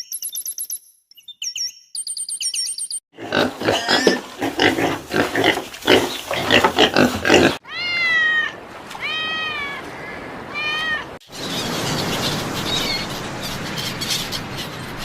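Several animal sound clips cut one after another: high repeated chirps, then about four seconds of rapid coarse calls, then four arched calls that rise and fall in pitch, then a steady noisy outdoor chorus with faint chirps.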